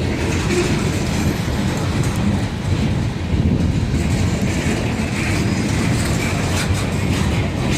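A train rolling past with a steady rumble of wheels on rail and some clicking as the wheels cross rail joints.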